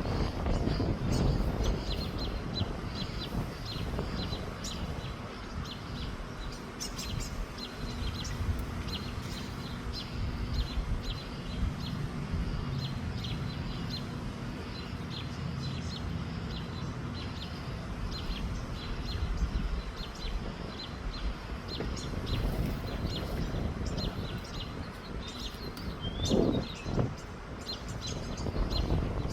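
A small bird chirping over and over, short high chirps about twice a second, over a low rumble of wind on the microphone. A brief lower-pitched sound comes near the end.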